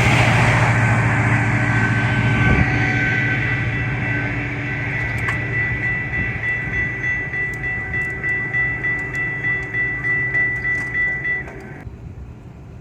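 A passenger train passing at speed, its rumble slowly easing. In the second half comes an even, rhythmic clatter of wheels over the rails, about two beats a second, and a steady high tone runs along with it until it cuts off suddenly near the end.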